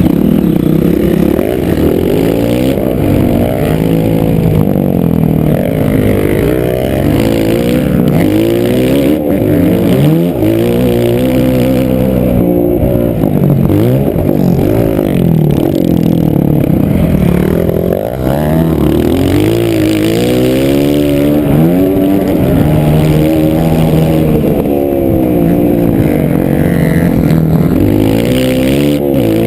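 Motocross bike engine revving up and falling back over and over as the rider accelerates, shifts and slows around a dirt track.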